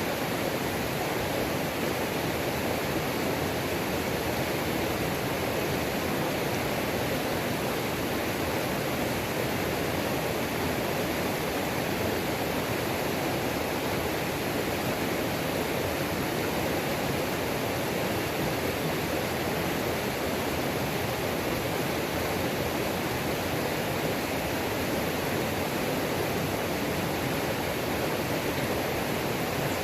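Mountain creek waterfall: water pouring and splashing over rocks in a steady, unbroken rush.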